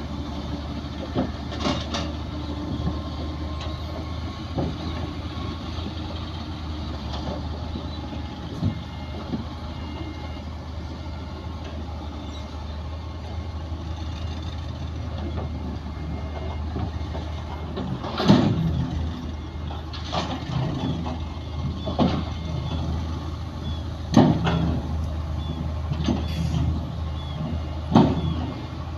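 Heavy diesel earth-moving machinery running steadily, with repeated sharp metallic clanks and knocks, most of them in the second half.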